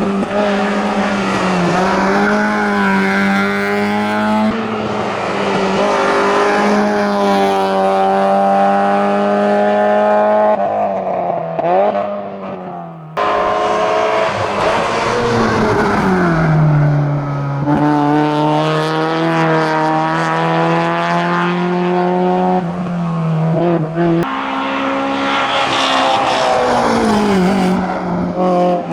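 Mazda MX-5's four-cylinder engine at full throttle on a hillclimb run, revving up through the gears with sharp drops in pitch at each shift and on braking. Near the end a second four-cylinder race car, a Peugeot 205, takes over, revving the same way.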